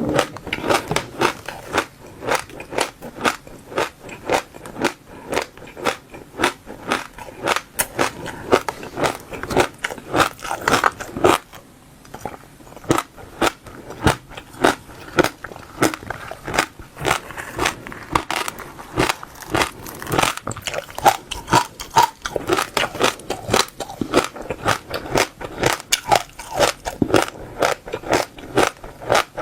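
Close-up chewing of seeds in the mouth: a rapid run of sharp, crisp cracks, several a second, as the seeds are bitten and crushed between the teeth, with a short lull about twelve seconds in.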